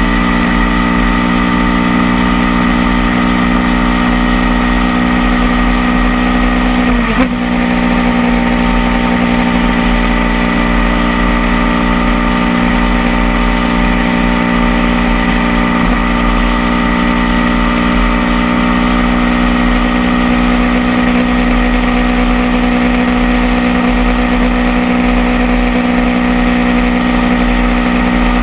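Motorcycle engine running steadily at cruising speed, heard from a camera mounted on the bike, over a steady rush of wind and road noise. Its pitch dips briefly and recovers about seven seconds in.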